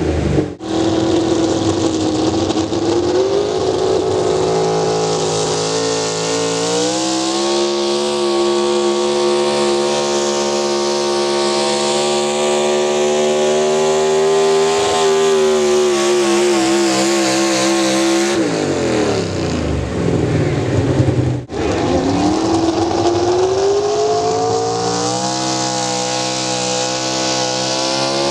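A pulling vehicle's engine running hard at high revs. Its pitch climbs and holds, then falls away about eighteen seconds in. After an abrupt break a few seconds later it climbs again.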